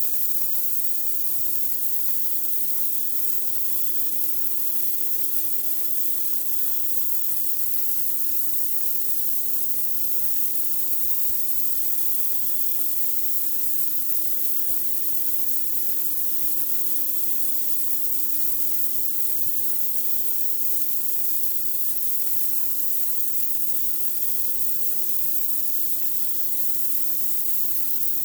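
A pressure washer's high-pressure water jet hissing steadily as it blasts grime off a driveway, with the machine's motor humming steadily underneath.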